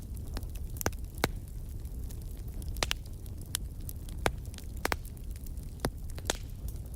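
Wood logs burning in a fireplace: a steady low rumble of the flames with irregular sharp crackles and pops, about a dozen in seven seconds.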